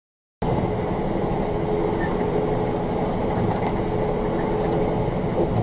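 Steady rumble of a moving vehicle, road and engine noise, that starts abruptly about half a second in, with a faint steady hum on top.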